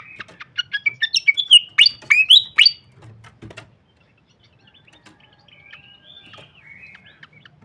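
Srikatan kipas singing: a fast run of sharp, loud chirps and rising whistles for the first three seconds, then a quieter twittering warble after a short pause.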